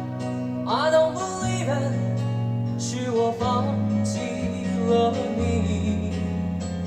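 Instrumental intro of a Mandarin pop ballad, with acoustic guitar over held chords, played back through a Diatone DS-97C hi-fi loudspeaker.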